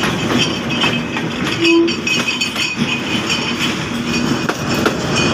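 Diesel-hauled passenger train passing close by, its coaches' wheels clattering steadily over the rail joints.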